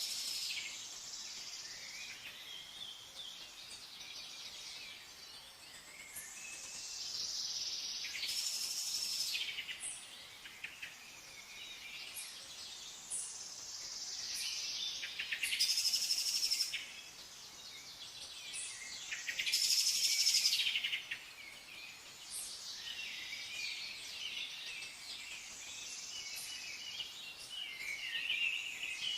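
Songbirds singing in repeated trilling, whistled phrases every few seconds, the loudest two about halfway through, over a faint steady background hiss.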